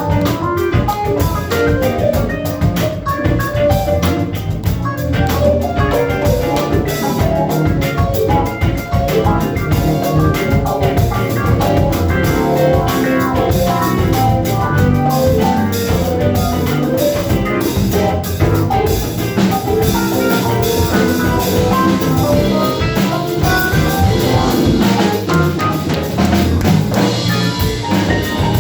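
Live band playing an instrumental funk tune, with a drum kit keeping a steady beat under guitar and other instruments.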